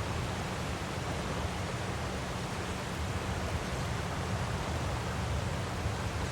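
Steady, unbroken rush of a waterfall, with most of its strength in a low rumble.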